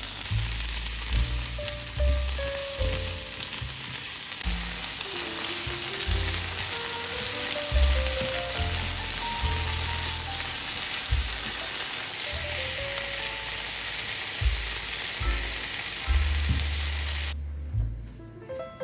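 Vegetables frying in hot oil in a frying pan: a steady sizzling hiss with scattered crackles that stops shortly before the end. Soft background music with a bass line plays underneath.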